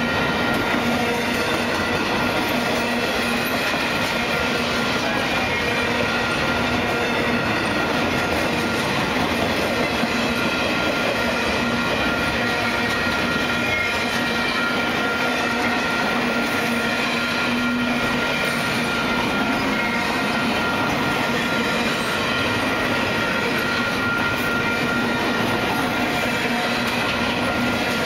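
Double-stack intermodal freight train's cars rolling past, a steady rumble of steel wheels on rail with a few thin, steady high tones held over it.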